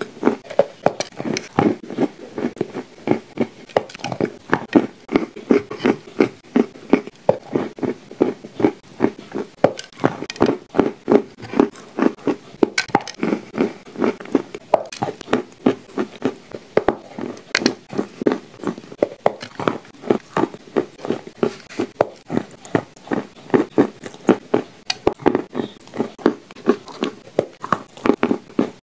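Close-miked chewing of crumbly shortbread cookie with clay paste, moist crunching mouth sounds in a fast, steady rhythm of about three chews a second.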